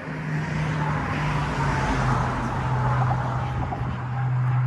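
A motor vehicle going by close, its engine hum dropping in pitch about two seconds in, with a swelling hiss of tyre and road noise.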